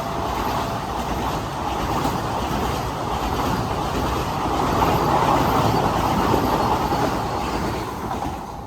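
A train passing at speed: a steady rush of wheel and track noise that swells to its loudest about five seconds in and drops away near the end as the train clears.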